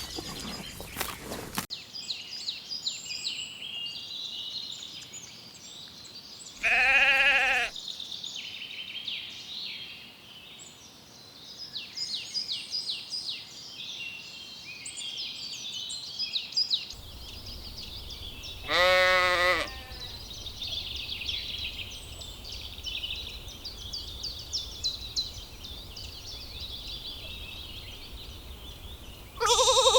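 Sheep bleating twice, each a wavering call about a second long, at about 7 and 19 seconds in, with another bleat starting at the very end. Continuous high-pitched chirping runs underneath.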